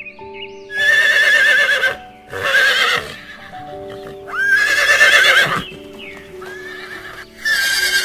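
Horses whinnying: four loud whinnies with a quavering, wavering pitch, over soft background music of steady held tones.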